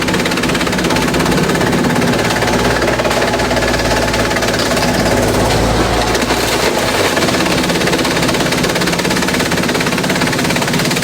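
Industrial bamboo shredder running loudly, shredding bamboo with a continuous rapid clatter. A deeper rumble swells about two seconds in and drops away around seven seconds.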